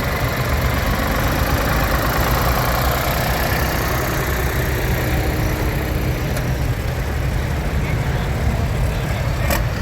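Tractor engine idling steadily with a low rumble.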